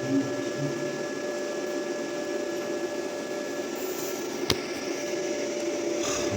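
A steady machine hum with a few constant tones, and a single sharp click about four and a half seconds in.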